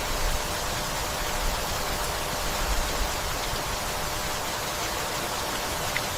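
Steady rainfall: a dense, even hiss of rain falling, with no break or change.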